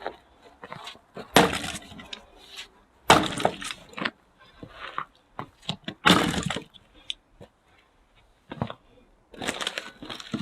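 Axe splitting firewood: four heavy blows, each a sharp crack of the wood breaking apart, with lighter knocks in between.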